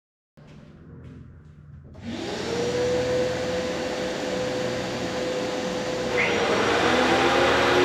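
A small electric motor spinning up about two seconds in with a rising whine, then running steadily with a rushing, airy noise that grows louder after about six seconds.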